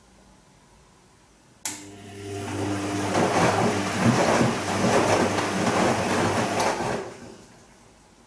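Bosch Serie 2 VarioPerfect washing machine on its Silk programme turning its drum in the wash phase. A click comes about a second and a half in, then the motor hums and water and laundry slosh for about five seconds before it winds down and stops.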